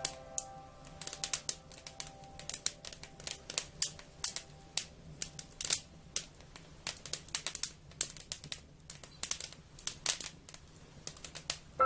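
Wood fire crackling: irregular sharp pops and snaps, several a second and uneven in loudness. A few held notes of soft background music fade out in the first couple of seconds.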